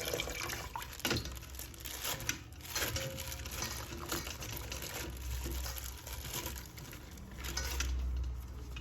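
Hands handling plastic toys and wrappings: scattered light clicks and crinkling rustles over a low hum.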